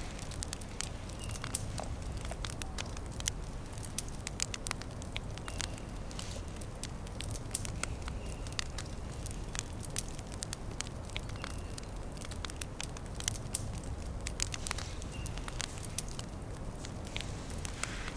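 Small wood campfire crackling, with frequent irregular sharp pops over a steady low rumble.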